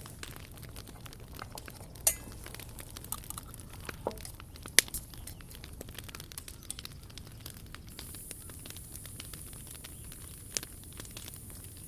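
Wood fire crackling steadily, with a few sharp pops, the loudest about two and five seconds in. A steady high hiss comes in about eight seconds in.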